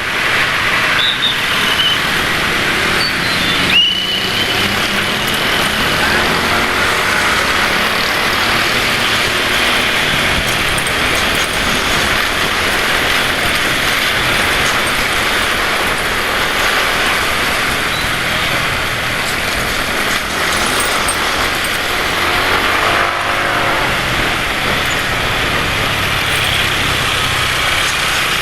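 Road traffic heard from a moving motorbike: a steady rush of engines, tyres and wind, with a short high squeal about four seconds in. Around 23 seconds in, a nearby motorcycle engine rises and falls in pitch as it passes or revs.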